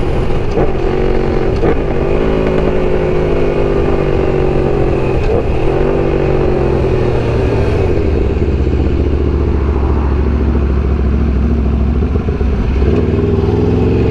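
Aprilia RSV4 V4 sportbike engine running at a steady speed while riding. Its pitch dips and recovers about five seconds in and shifts again near the end.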